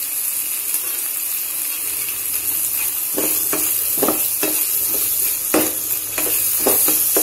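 Tomato chutney sizzling in a nonstick kadhai as fresh coriander is stirred in. From about three seconds in, a wooden spatula scrapes and stirs through it in a series of short strokes over the steady sizzle.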